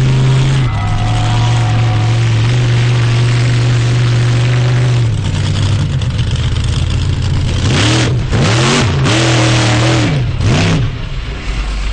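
Monster truck engine running loudly at a steady pitch, then revved up and down in several quick blips near the end.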